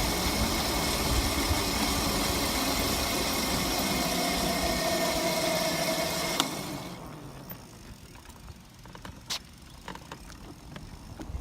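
Dirt bike engine running steadily, heard close up from a phone mounted on the bike. About six and a half seconds in the sound drops sharply after a click, leaving a faint low rumble with scattered knocks.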